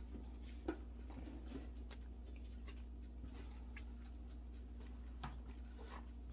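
Faint mouth sounds of a person chewing a spoonful of whipped chocolate dessert topped with chocolate chips: soft scattered clicks and ticks, one slightly louder about a second in, over a low steady hum.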